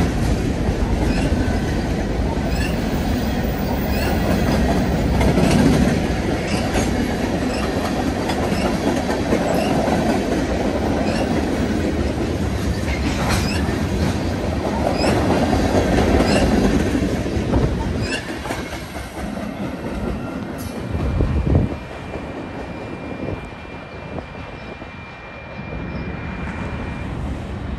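Freight train of covered hopper cars passing close by at speed: a steady rumble of steel wheels with regular clicks over the rail joints. The sound dies away over the last third as the end of the train goes by, with a thump and then a thin high squeal lasting several seconds.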